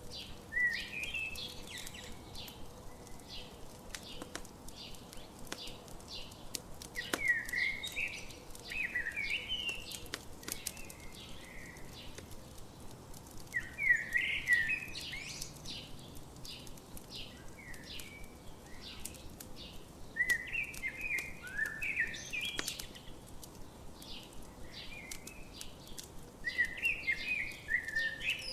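A songbird singing a short warbled phrase five times, about every six seconds, over the sharp pops and crackles of a campfire.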